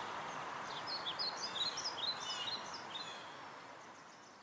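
Birds chirping, a quick run of short high calls in the middle, over a steady outdoor hiss. The whole sound fades out toward the end.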